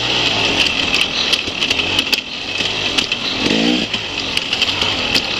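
Enduro motorcycle engine heard from an onboard camera as the bike is ridden hard over a dirt trail, its revs rising and falling with the throttle and climbing sharply about three and a half seconds in. Frequent short clicks and knocks run through it.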